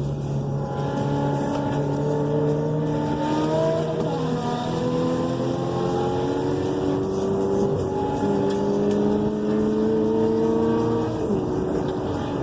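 Car engine held at high revs under throttle, its pitch dipping briefly about four and a half seconds in, then climbing and holding before it drops near the end.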